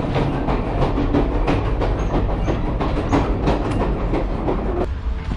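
Passenger train running on the rails: a steady low rumble with the wheels clacking and the car rattling. The rattle drops off suddenly near the end, leaving mostly the low rumble.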